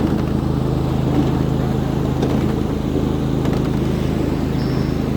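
A 7.5-inch gauge ride-on train running steadily along the track: an even, low engine drone with a few faint clicks from the wheels on the rails.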